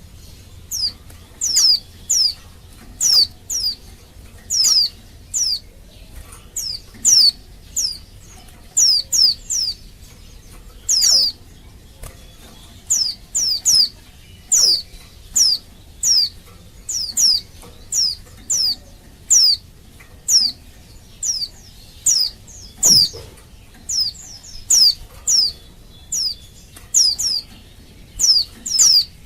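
Female white-eye (pleci) calling over and over: short, high, downward-slurred notes, singly or in quick pairs and threes, about one to two a second. It is the excited call of a female in breeding condition, used as a lure to set male white-eyes answering and singing.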